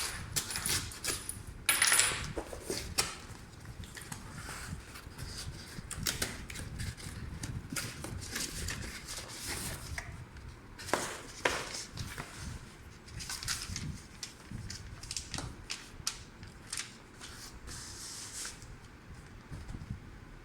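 Earphone packaging being handled and opened: irregular clicks, taps and rustles of cardboard and plastic, with a few sharper knocks about two seconds in and again near the middle.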